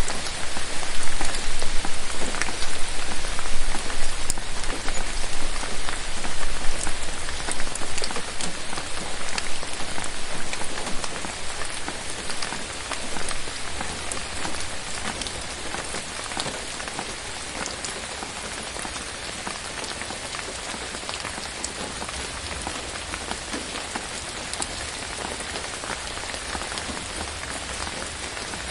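Rain falling steadily in a forest, a dense even hiss with many separate drops ticking through it. It is heavier for the first ten seconds or so, then eases to a lighter, even fall.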